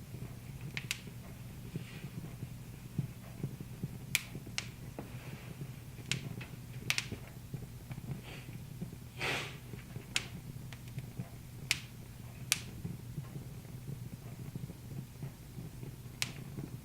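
Wood fire crackling in a fireplace: irregular sharp pops and snaps, one every second or two, over a steady low hum.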